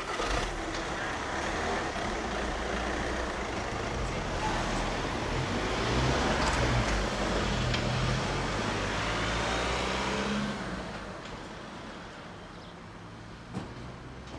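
A vehicle passing close by, with a low motor hum under the noise of its wheels; the sound swells for several seconds and drops away about ten seconds in.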